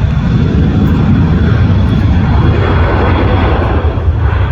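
Airplane engine running loud close by, a dense low rumble that swells through the middle and eases off near the end.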